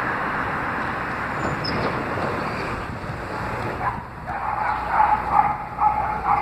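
Strong wind rushing over the phone's microphone, a steady noisy rush. It eases about four seconds in, and faint short pitched sounds from further off come through.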